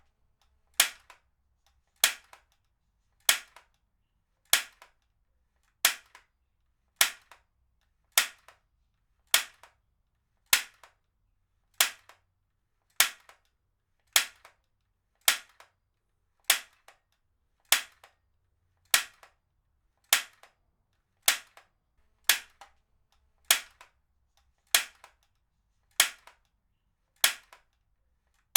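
Heavy-duty stapler firing again and again at a steady pace, a little more than once a second: each stroke is a sharp snap followed by a fainter click.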